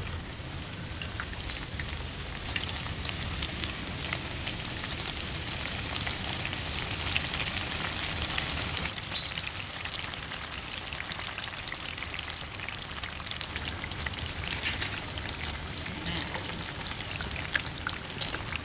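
Eggplant pieces deep-frying in hot oil: a steady sizzle with many small crackles and pops throughout.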